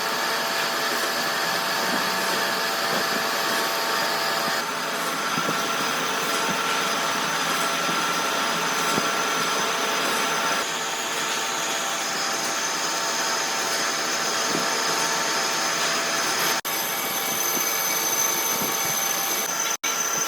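Steady machinery running, with several high whining tones over a dense noise. The sound changes abruptly a few times and drops out for a moment near the end.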